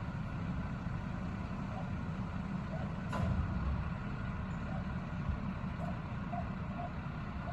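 Garbage truck engine running steadily with a low rumble, with a single sharp knock about three seconds in.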